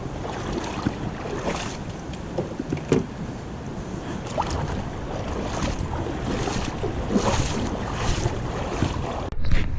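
Rushing river water with wind buffeting the microphone, a steady hiss with gusty low rumble and small splashes.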